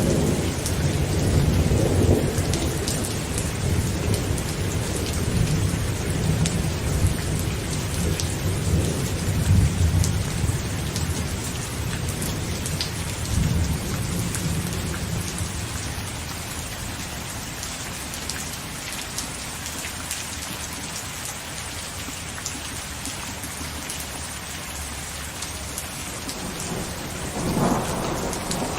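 Heavy rain falling on a tent, with thunder rolling low and long through the first half before dying away. A new thunderclap begins to build near the end.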